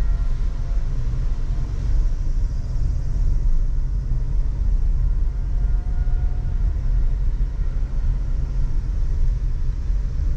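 Car being driven: steady low road and engine rumble.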